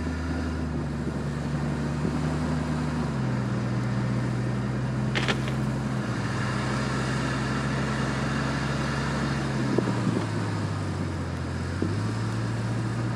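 A 4x4 driving along a back road: a steady low engine drone that steps to a new pitch a few times, over a hiss of tyre and road noise, with one sharp knock about five seconds in.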